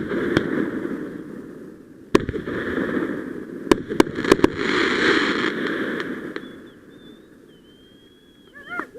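Aerial fireworks going off: a few sharp bangs in quick succession about two to four and a half seconds in, with crackling hiss from the bursts that swells and then fades out after about six seconds.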